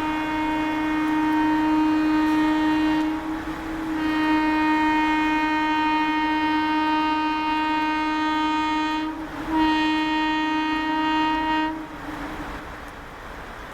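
Indian Railways WAP-4 electric locomotive's horn sounded in three long, steady blasts, with brief breaks about 3 s and 9 s in. The last blast ends about 12 s in, leaving a steady rushing noise.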